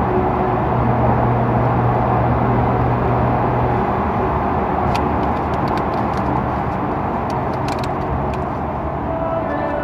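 Nissan Skyline R33 GTR's twin-turbo straight-six and road noise while driving, a steady low engine drone that eases off about four seconds in. A scatter of faint clicks comes in the second half.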